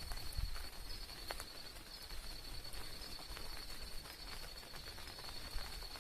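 Insects chirring in a steady, high-pitched pulsing trill, with scattered light ticks and a low rumble on the microphone, the rumble strongest in the first second.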